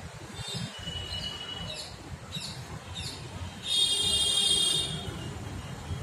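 Birds calling: a string of short, sweeping, shrill chirps with a brief whistle in the first three seconds, then a loud, harsh, buzzy sound lasting over a second, the loudest thing here, over a low background rumble.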